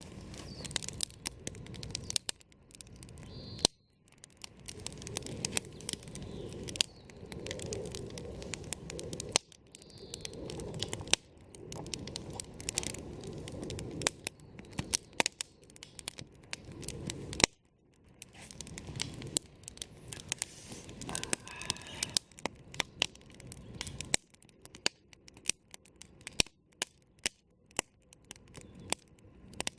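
Wood campfire crackling and popping: sharp irregular snaps over the low rush of the burning flames.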